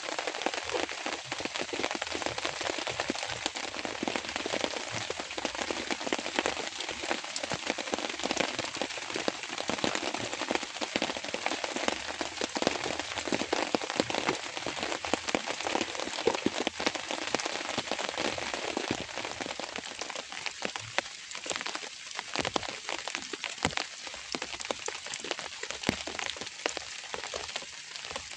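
Steady rain falling, a dense patter of many fine drops, thinning slightly about two-thirds of the way through.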